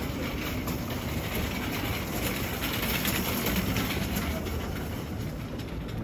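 Train running, a steady rumble and rattle.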